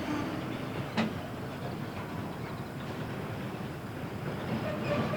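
Freight train rolling past, its wagon wheels clattering steadily over the rails, with a sharp click about a second in.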